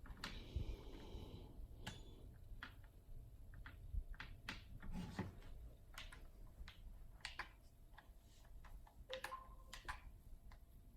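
Scattered, irregular light clicks and taps with a few soft thumps: small objects being handled and set down.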